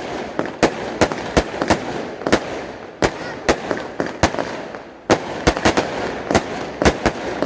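A 150-shot Sovereign Midnight Snow Storm firework cake firing: a rapid series of sharp shots, about three a second, over a constant noisy bed. The firing eases off for a moment just before five seconds in, then picks up again.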